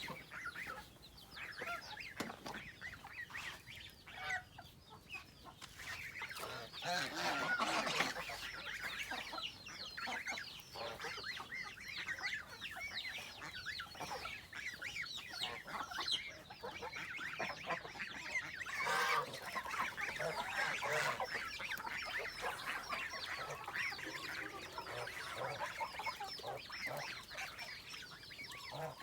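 A flock of poultry making many overlapping short calls as they are fed, louder in two spells, about seven seconds in and again near twenty seconds.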